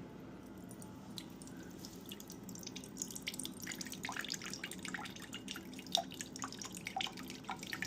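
Soy sauce dripping from the bottle's spout into a measuring cup, a quick irregular run of small drops that starts about three seconds in. A low steady hum runs underneath.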